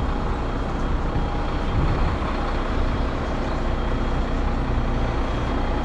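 Heavy recovery truck's diesel engine running steadily, with a thin steady whine above it.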